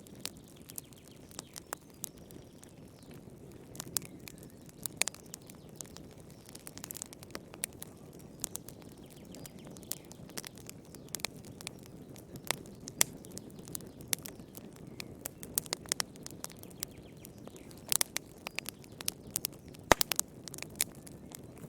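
Wood fire in a fireplace crackling: a steady low rush of flame under irregular sharp pops and snaps, with a few louder snaps near the end.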